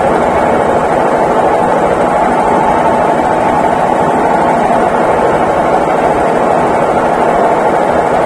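Consul Facilite 11 kg (CWG11) washing machine running with a steady, continuous mechanical hum.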